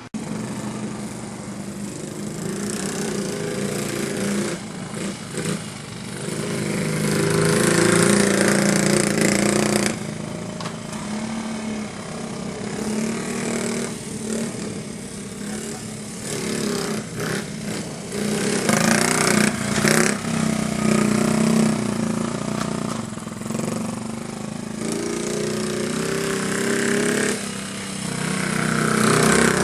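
1968 Honda Z50A K0 minibike's small single-cylinder four-stroke engine running as the bike is ridden. The engine note rises and falls several times as the throttle is opened and closed.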